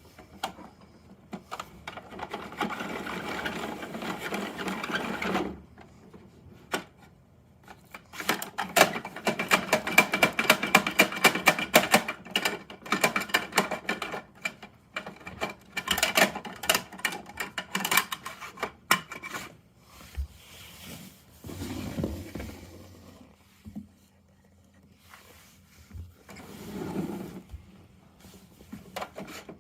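Plastic toy garbage truck being handled, its parts rattling and clicking in quick runs, with quieter pauses between.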